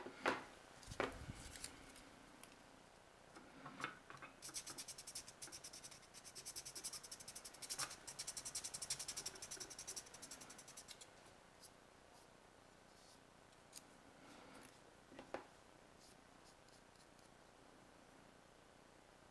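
Hand-sanding a plastic model-kit part: a run of quick back-and-forth rubbing strokes lasting several seconds in the middle, with a few light knocks of the part and tools before and after.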